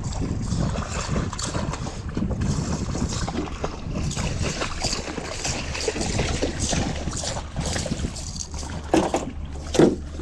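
Wind buffeting the microphone and water slapping against a fishing boat, over a steady low hum, with two short louder sounds near the end.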